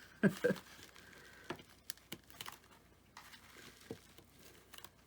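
Scattered light clicks and faint rustling of foam-board pieces being handled and pressed together while being glued.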